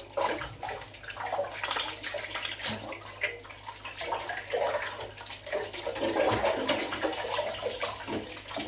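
Water running and splashing unevenly, with small clicks and sloshes.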